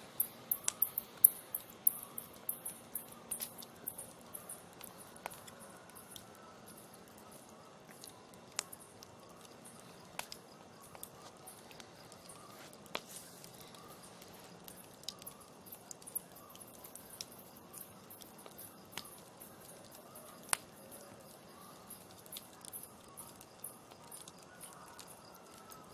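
Campfire crackling: irregular sharp snaps and pops of burning wood, coming thick for the first few seconds and more sparsely after, over a faint steady hiss.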